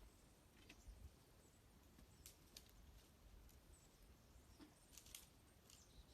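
Faint, scattered short chirps of small birds, with an occasional crackle of a wood campfire.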